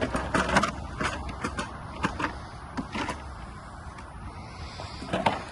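A string of irregular sharp clicks and knocks: several close together in the first second, then single ones spread out, and another near the end.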